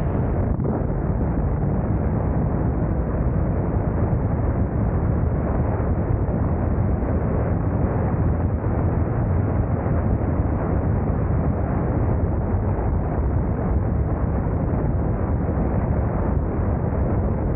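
Steady low rumble of wind buffeting a motorcycle camera's microphone while riding, with engine and road noise blended in.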